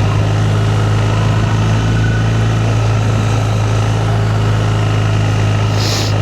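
Motorcycle engine running at a steady low engine speed as the bike climbs a steep mountain road, with a rushing noise over it. A brief hiss near the end.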